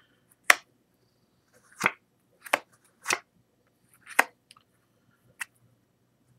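Playing cards being flipped face up and snapped down onto a table one at a time, about six sharp card snaps at an uneven pace.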